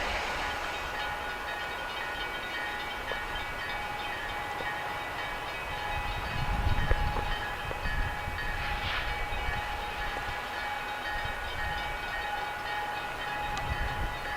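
EMD SD40-2 diesel locomotive running light, its 16-cylinder two-stroke engine a low rumble that swells about six to eight seconds in, under a steady high-pitched tone that lasts throughout.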